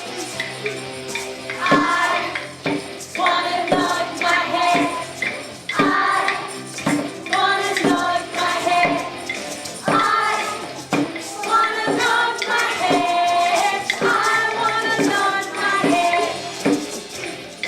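Children singing a song together, with musical accompaniment and a steady beat.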